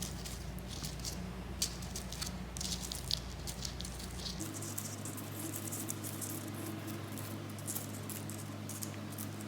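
Soft, irregular tapping and rustling of a homemade paintbrush of flowers and leaves being dabbed in paint, over a steady low hum.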